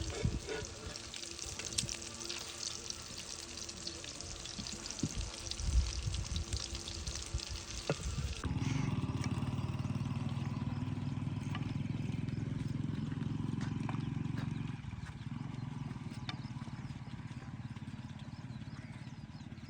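Water being poured, a steady hiss with a few knocks of handling. About eight seconds in, it gives way suddenly to low, steady background music.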